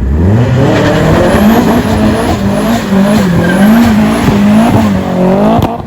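Truck engine revving hard, its pitch climbing steeply at the start and then held high, rising and dipping several times while the tyres spin and squeal in a burnout. The revs drop near the end, followed by a single sharp bang.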